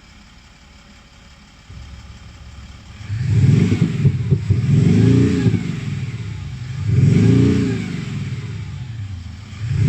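Active Sound V8 system in a Mercedes-Benz R-Class 350d, playing a synthetic V8 exhaust note over the diesel engine. After a quiet start it swells about three seconds in and rises and falls in pitch about three times, like repeated revs.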